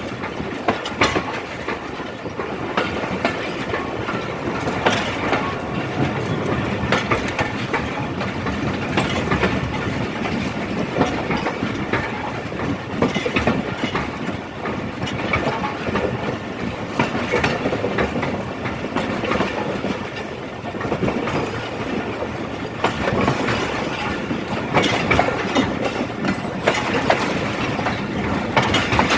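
Passenger train coaches rolling past at a steady speed, the wheels clattering over the rail joints in a continuous clickety-clack.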